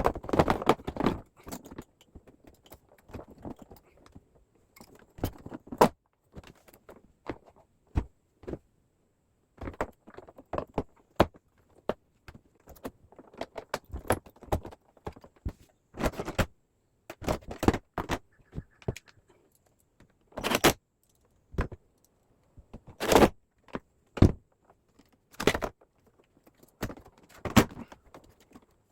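Irregular clicks, taps and rattles of hard parts being handled, a second or two apart, some sharper and louder than others, typical of plastic air-conditioner parts being worked by hand.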